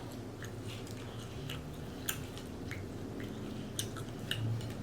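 Close-up chewing of seafood boil, with scattered short wet clicks and lip smacks.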